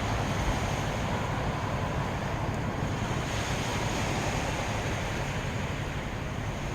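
Sea waves washing on the beach with wind buffeting the microphone: a steady rushing surf sound with a low rumble.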